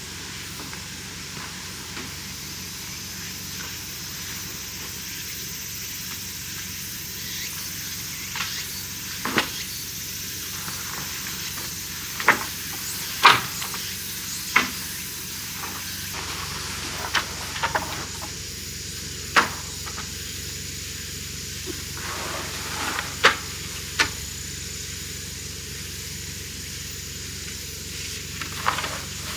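Steady hiss of rain, with scattered sharp taps and clicks, about a dozen, irregularly spaced.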